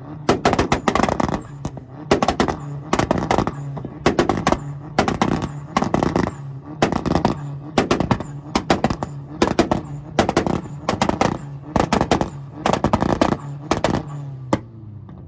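Volkswagen engine held on a two-step launch limiter, its exhaust firing rapid volleys of loud bangs and pops in repeated bursts about once a second over a steady engine drone. The bangs stop abruptly near the end.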